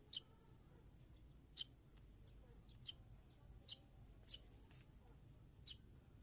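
A small bird giving short, sharp chirps, six in all at irregular intervals, faint against a quiet background.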